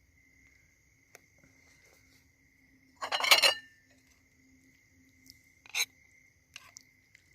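Clinking of dishes and utensils: a loud half-second clatter about three seconds in, then two short clinks near the end, over the steady chirring of crickets.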